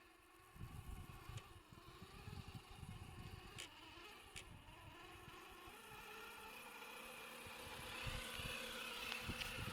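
Electric motor and gear whine of a Rlaarlo JK07PRO 1/7-scale RC trail truck driving, growing louder toward the end, over irregular low crackling and knocks.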